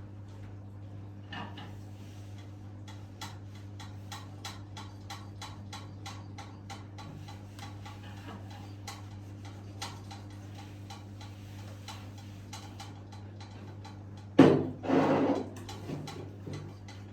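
Light ticking, a few clicks a second, over a steady low hum; about fourteen seconds in, a loud knock and a short clatter.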